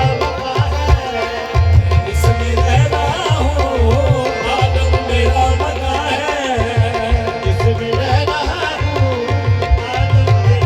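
Qawwali music: tabla drumming in a steady, driving rhythm under a wavering melodic line.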